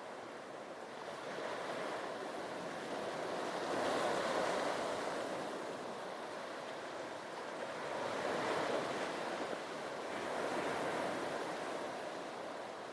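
Sea waves breaking and washing on a beach, the surf swelling three times, about a second before the middle, past two-thirds of the way and near the end. A light wind blows across the microphone.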